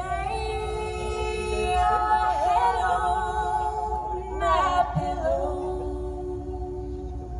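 Live band music with long wordless sung notes held in harmony, wavering now and then, between verses of the song.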